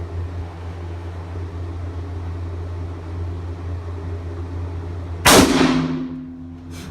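A single shot from an M1917 Enfield bolt-action rifle in .30-06. The sharp report comes about five seconds in, and its echo in the indoor range dies away over about a second.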